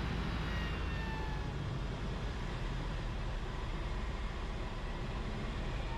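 Cessna 172RG cockpit noise: the engine running at low power with steady airflow noise. A faint thin tone falls slightly in pitch over the first second and a half.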